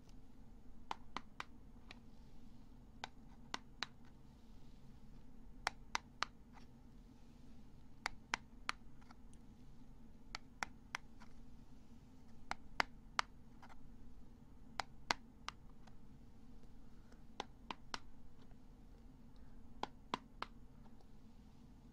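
Close-miked ASMR ear-cleaning sounds: crisp, sharp clicks and taps, often two or three in quick succession, coming irregularly every second or so over a faint steady hum.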